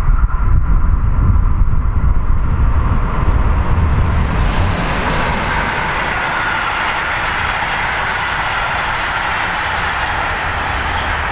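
SJ Rc6 electric locomotive hauling a passenger train passes close by. A low rumble with a faint steady whine as it approaches, then from about four seconds in a steady rush of coach wheels on the rails as the carriages go by.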